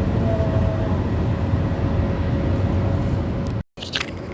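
Kamov Ka-52 attack helicopter running, a steady deep rumble of its turboshaft engines and coaxial rotors. It cuts off abruptly near the end, followed by a few sharp clicks over quieter airfield noise.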